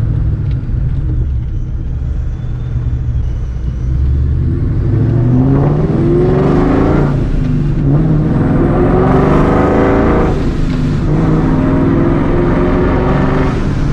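Straight-piped, supercharged 2004 Mustang GT's 4.6-litre V8 pulling hard through the gears. The note holds steady at first, then rises, drops at a shift about seven seconds in, rises again and drops at a second shift near eleven seconds.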